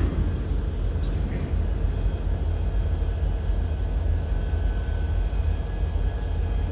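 Train running through a railyard: a steady low rumble with faint steady high-pitched whines over it.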